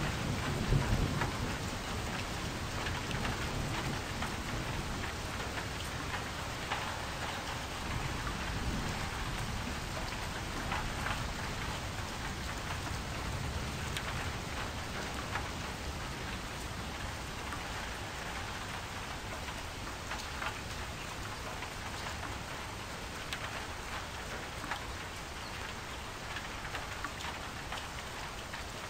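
Steady rain pattering, with a low rumble of thunder in the first second or so that fades out.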